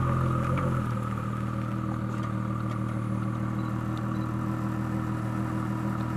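2017 Ford GT's twin-turbo 3.5-litre V6 running at a steady pitch with the car held stationary on the brakes, waiting to make a launch-control start. The pitch drops slightly about a second in, then holds steady.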